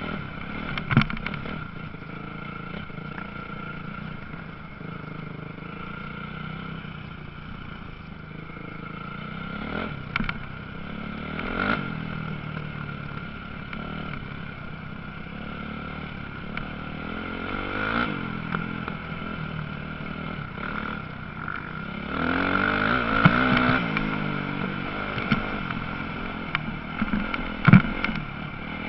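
Motocross motorcycle engines revving and changing pitch as bikes pass on the track, with the loudest, closest pass a little after twenty seconds in.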